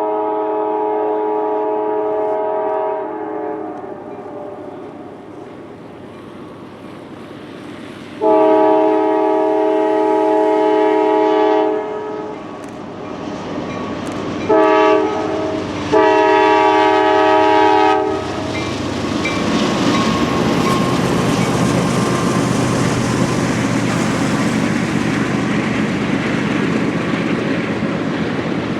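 Locomotive air horn sounding a chord of several notes in the grade-crossing pattern: long, long, short, long. It ends about 18 seconds in, and then the train passes close, with a steady rumble and wheels clacking over the rail joints.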